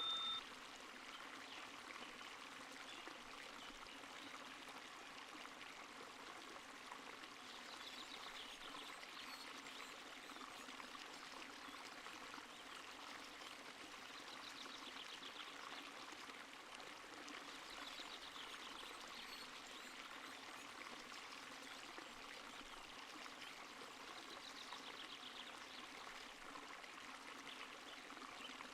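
Faint, steady running water of a stream, trickling and burbling. A faint high trill recurs about four times.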